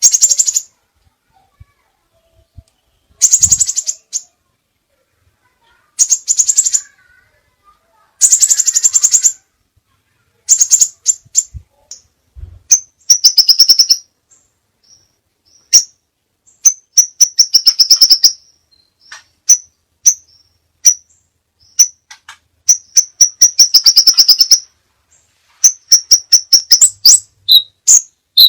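Crimson sunbird singing: bursts of rapid, high-pitched chirping trills about a second long, separated by pauses of one to two seconds. In the second half the notes come more often as quick single or paired chirps.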